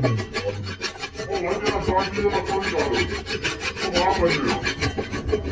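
Metal being rasped or scraped in rapid, even strokes, about six a second, with some squeaky tones.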